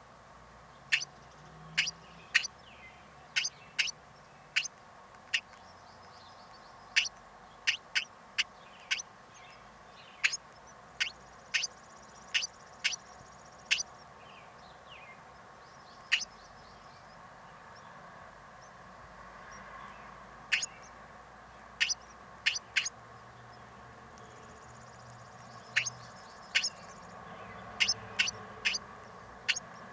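A bird giving short, sharp chip calls, singly and in quick runs, with pauses of a few seconds between runs, over a faint steady background.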